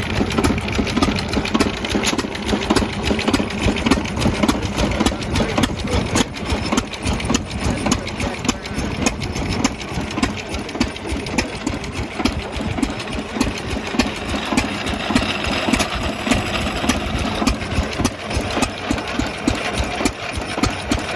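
Antique stationary gas engine running with a steady, rapid, even beat.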